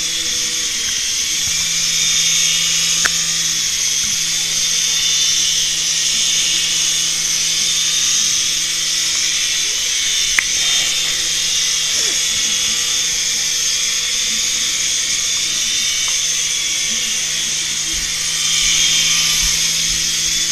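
Small electric toy RC helicopter in flight, its motors and rotors making a steady high whir. Two brief clicks come about three and ten seconds in.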